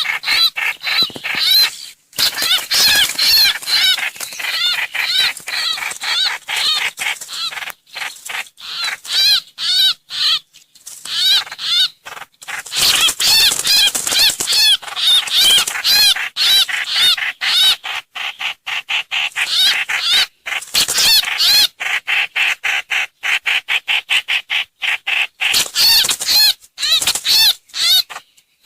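Loud, rapid runs of short, arched bird calls, repeated in long bursts with brief gaps between them: a lure recording of the trao trảo (hoành hoạch) bird.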